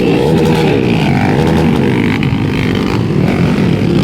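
Several underbone motorcycle engines racing, revving up and down with their pitches rising and falling over one another.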